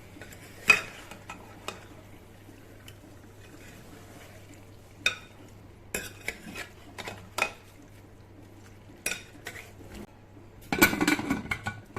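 A spoon stirring chicken into onions in a pressure cooker, scraping and knocking against the pot every second or so, with a quick run of louder taps near the end.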